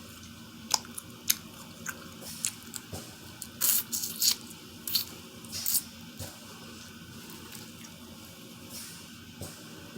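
Close-up mouth sounds of someone chewing shrimp: wet smacks and sharp clicks, several in the first six seconds, then sparser.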